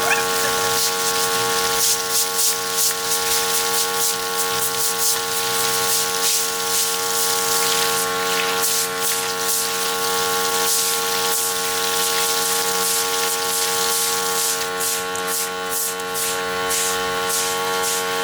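Pressure washer running steadily: a constant motor whine under the hiss of a water jet, the spray pulsing as it is swept across a surface.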